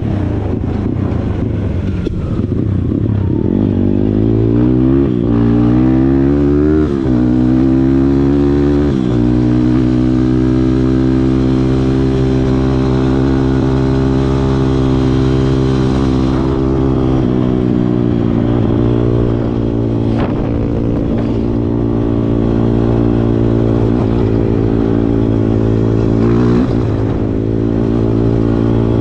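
Kawasaki KLX140 trail bike's single-cylinder four-stroke engine accelerating up through the gears, revs climbing and dropping back at three shifts in the first nine seconds or so. It then holds a steady cruise, eases off about halfway, and a couple of sharp knocks come through in the second half.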